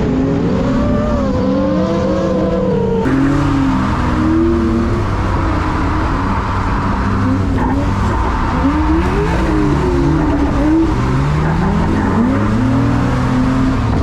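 Drift car engines revving up and down through slides, over a steady hiss of tyre and road noise; the sound changes abruptly about three seconds in.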